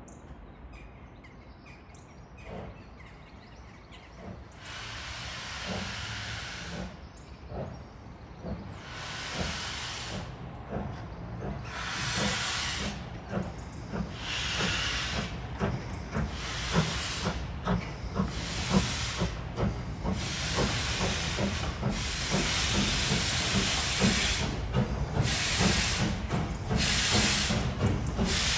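Steam locomotive working hard, its exhaust beats coming quicker as it picks up speed, over a low rumble of the train that grows louder as it approaches.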